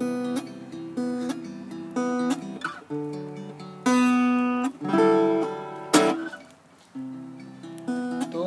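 Acoustic guitar strumming and letting chords ring, a slow sparse intro with short pauses between strums, leading into a worship song.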